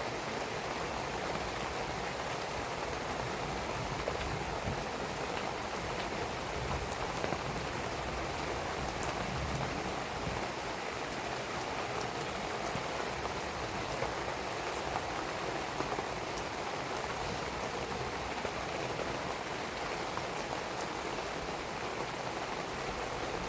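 Steady rain falling on surfaces, with scattered sharp crackles from a burning wood fire.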